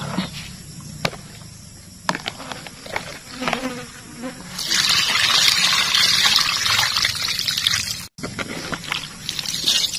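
Water being rinsed and poured out of a plastic basin of green onions. There are knocks and splashes as the basin is handled. A steady rush of pouring water starts about halfway through and lasts about three seconds.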